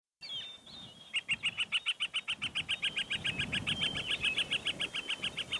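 Small songbird singing a fast, even trill of short high notes, about seven a second, starting about a second in, after a few brief chirps.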